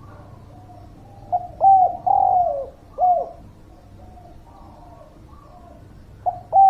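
Spotted dove (derkuku) cooing: a loud phrase of short and drawn-out coos, each note dropping in pitch at its end, beginning about a second in. Fainter coos fill the gaps, and a new loud phrase starts near the end.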